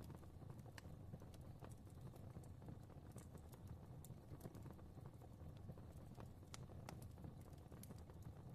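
Fireplace fire burning faintly: a low steady rumble of flame with small irregular crackles and pops, a few each second.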